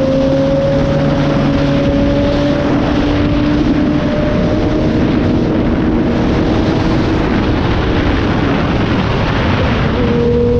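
Motorcycle engine running at speed over a heavy rush of wind on the microphone. The engine note climbs slowly, then comes back at a lower pitch near the end and starts climbing again.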